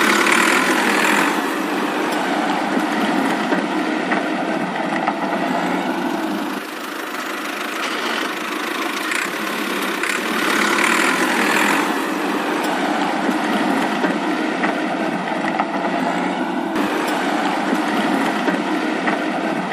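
Small motor of a DIY mini tractor running steadily, a whirring mechanical noise with almost no low end, easing off briefly partway through.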